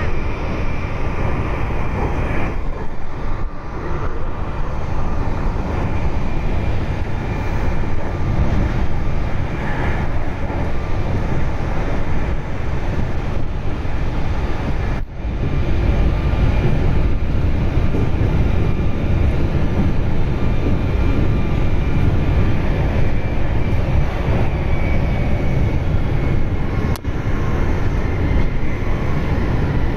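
Meitetsu electric train running at speed, heard inside the carriage: a steady rumble of wheels on rail with a faint whine above it.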